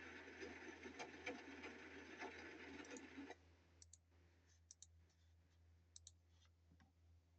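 Faint clicking: a soft haze with scattered clicks that drops away about three seconds in, then a few sharp clicks, some in quick pairs.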